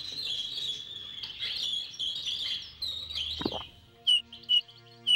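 A flock of small birds chirping and tweeting together in a dense chatter. About three and a half seconds in, a falling glide sounds and the chatter stops. A few loud single chirps follow, over soft sustained background music.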